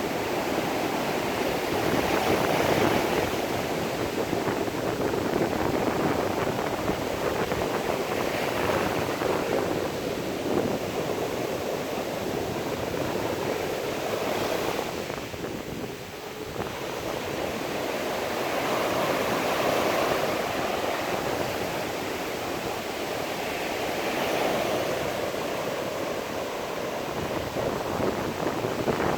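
Sea surf breaking and washing in, a steady rush that swells and eases every few seconds.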